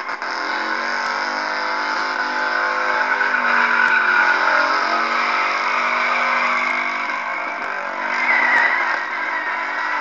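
SUV engine revving hard as the vehicle drifts in circles, its pitch rising and falling with the throttle, over a steady screech of spinning tyres.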